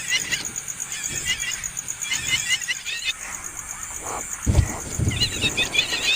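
Baby birds giving rapid bursts of high, short begging chirps, which break off for about two seconds in the middle and start again near the end; a couple of low thumps come about four and a half seconds in.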